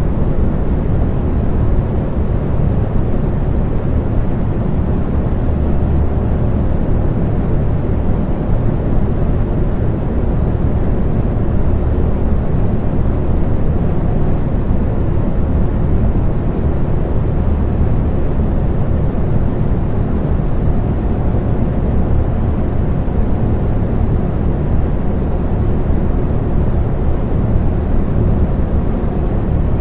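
Electric fan running steadily: a low, even whooshing hum with faint steady tones in it.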